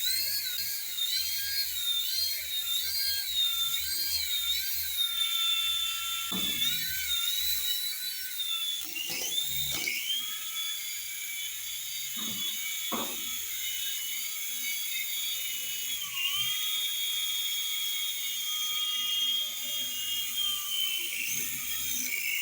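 Mini toy helicopter's tiny electric motor and rotors running with a high whine, its pitch wavering up and down as it hovers and is steered by hand. A few short knocks sound near the middle.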